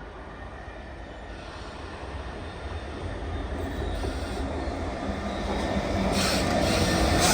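A train approaching on the main line, its rumble growing steadily louder. About six seconds in it gets noticeably louder, with steady tones and a brighter hiss from the wheels and rails coming in.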